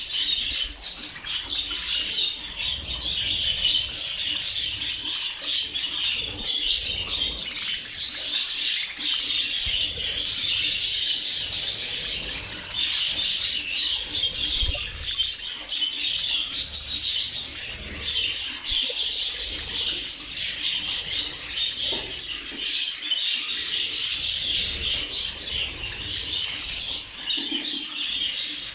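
A large flock of budgerigars chirping and chattering together in a continuous dense chorus of many overlapping high warbles.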